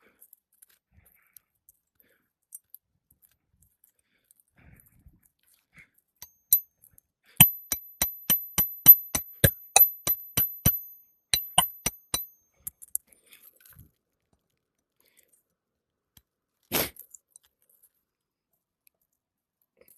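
A rapid run of about fifteen sharp metal-on-metal hammer strikes, roughly three a second, with a high ring, driving a roof snake (shingle nail-removal tool) to free a nail under the shingles. A short scrape follows near the end.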